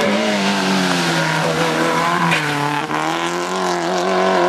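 Rally car engine running hard at high revs, its pitch rising and falling with the throttle, with a brief dip about three seconds in.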